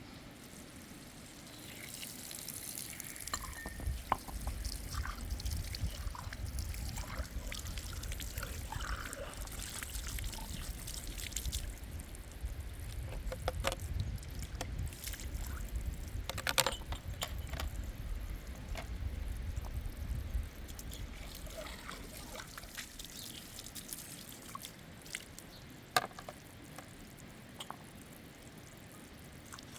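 Water pouring and trickling, with scattered drips and small clicks. A heavy low rumble sets in about two seconds in and drops away about twenty seconds in, leaving a quieter trickle.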